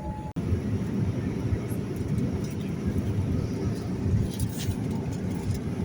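Steady low rumble of aircraft noise, which starts after a brief break in the sound about a third of a second in, with faint scattered clicks over it.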